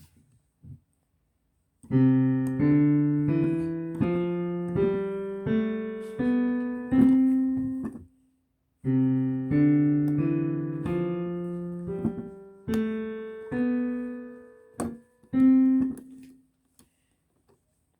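Piano being played: two short phrases of struck notes, each about six seconds long, with a brief pause between them.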